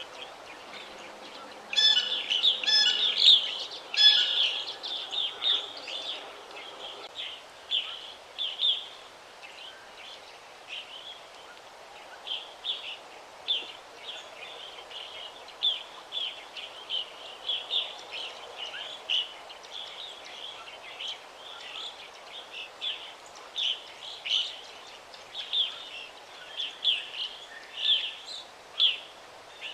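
Birds chirping: many short, high chirps through the whole stretch, with a louder cluster of calls about two to four seconds in, over a soft, steady background noise.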